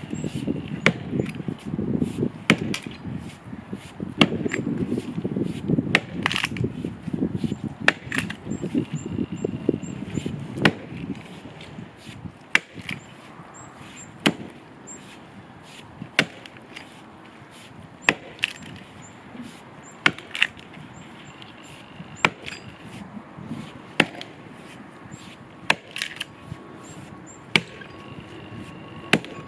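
Axe blows chopping into the trunk of a dead tree, one sharp strike about every two seconds. A low rumble of noise sits under the strikes for roughly the first third, then fades.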